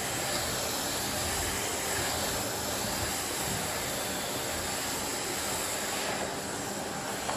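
Miele vacuum cleaner running steadily: an even rushing hiss with a faint high whine.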